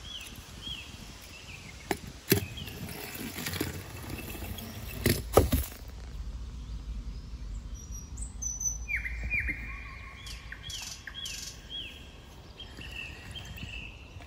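Small birds chirping in short repeated notes, a run of falling chirps at the start and a busier stretch of chirping from about two thirds of the way in. A few sharp rustles and knocks from handling, about two and five seconds in, over a low steady background rumble.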